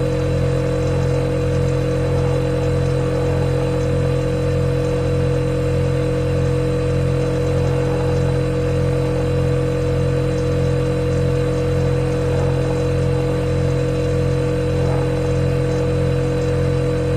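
Refrigerator compressor running with a steady, unchanging hum, a low drone with a higher tone over it.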